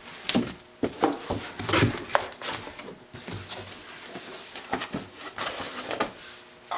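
Irregular rustles, clicks and light knocks of parts and packaging being handled as an oil cooler kit is unpacked.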